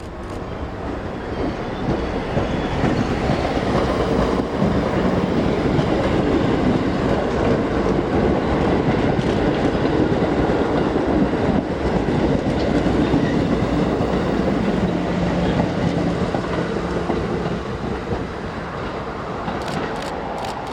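A Staten Island Railway electric train running through the station, its wheels clattering on the rails. The sound swells quickly at the start, holds loud and steady, and fades a little near the end, with a few sharp clicks.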